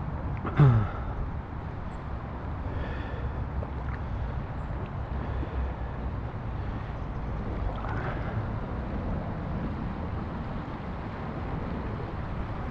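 Steady wind rumble on the microphone and water around an inflatable kayak on the move, with one short, loud sound sliding down in pitch about half a second in.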